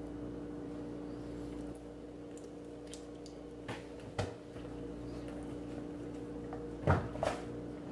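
Steady low hum with a few short, soft sounds of someone eating bananas: chewing and handling the fruit and peel, the loudest pair near the end.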